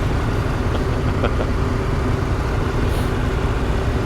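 Motorcycle riding along at steady speed: a continuous engine drone mixed with wind rush.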